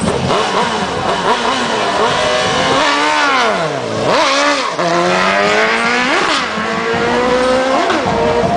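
A vehicle engine revving hard, its pitch sweeping down and back up several times, with the strongest swoop about three to four seconds in.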